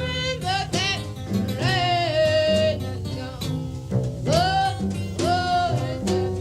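Blues band playing live: a woman's voice sings long held notes that swoop up into pitch, over acoustic guitar, piano, bass and drums.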